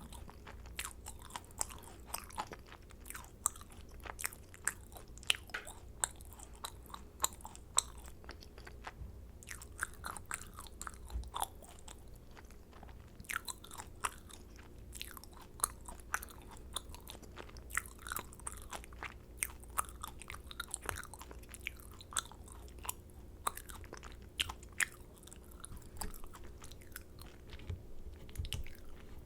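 Close-miked chewing of macarons: soft crackles and moist clicks of the meringue shells and filling being chewed, with a few sharper crunches.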